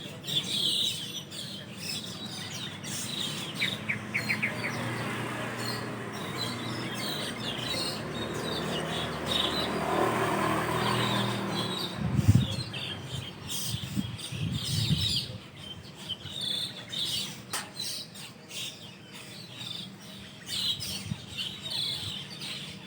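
A flock of Asian glossy starlings calling from their roost tree: many short, high chirps overlapping throughout. A broad rushing noise swells and fades midway, followed by a few low thumps.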